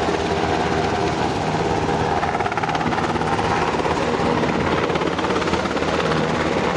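United States Coast Guard helicopter flying over, its rotors and engines running in a steady, loud, rapid beat.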